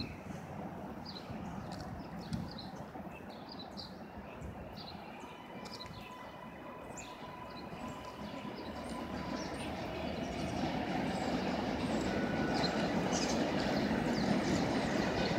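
A train approaching, its rumble growing steadily louder through the second half, with a faint steady whine for a few seconds in the middle. Small birds chirp throughout.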